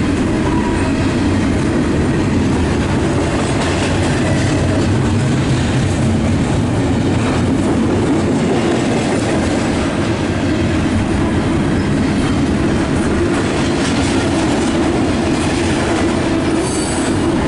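CSX double-stack intermodal freight train rolling past at close range: a steady, loud rumble of wheels on rail with faint rhythmic clicking, and a brief high wheel squeal near the end.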